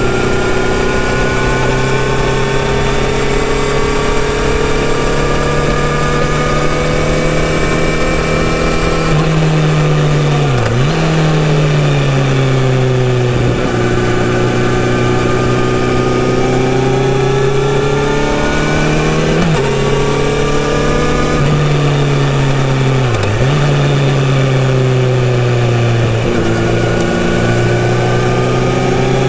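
Kawasaki Z900RS inline-four with a full-system sports exhaust, heard while the bike is ridden. The engine note climbs slowly under steady throttle, and its pitch dips sharply several times as the rider shifts gear or rolls off and back on the throttle.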